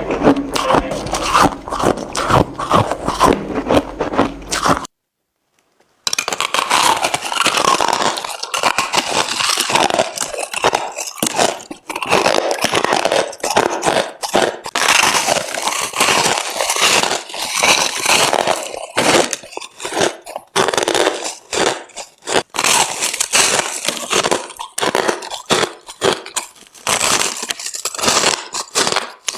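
Crushed ice being bitten and crunched close to the microphone: a rapid, continuous run of crisp crunches. A break of about a second of silence comes some five seconds in, then the crunching resumes.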